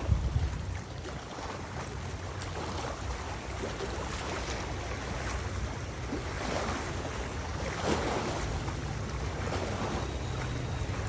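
Wind gusting against the microphone with a low rumble, over the rush of river water; the gusts are strongest about two-thirds of the way through.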